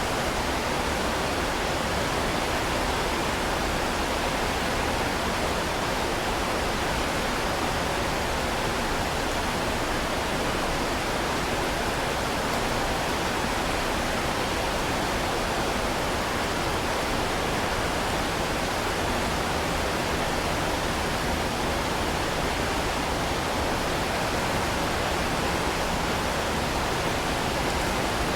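Heavy rain falling as a steady, even hiss with no distinct drops or thunder.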